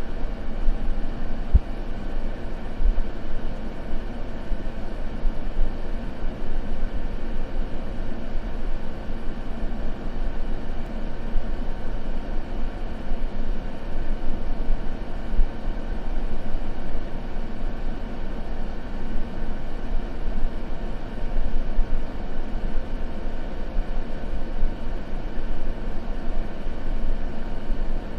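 Continuous white noise: a steady, even hiss that is fullest in the low end and has little treble, unchanging throughout.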